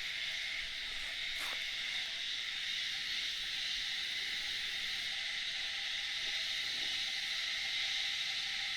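Steady, high-pitched chorus of forest insects, with one short click about a second and a half in.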